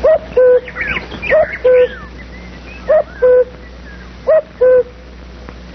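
A bird's two-note cooing call repeated four times, about every second and a half: a short higher note, then a longer, lower steady note. Other small birds chirp with quick gliding notes, mostly in the first two seconds.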